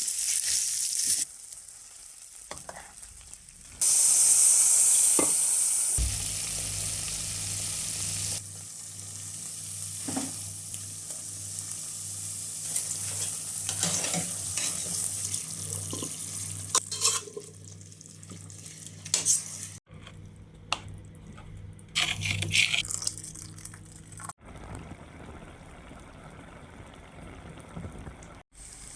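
Chicken sizzling as it cooks, with stirring and scattered taps of a utensil. It comes in several short stretches that cut off abruptly, loudest a few seconds in, with a steady low hum under the middle part.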